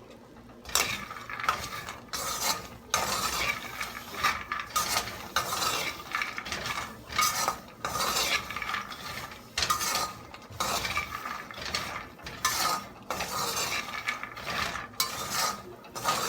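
Shelled peanuts being stirred in a pan as they dry-roast. After a short quiet start, there is a string of uneven scraping and rattling strokes as the nuts are pushed across the pan, about one or two a second.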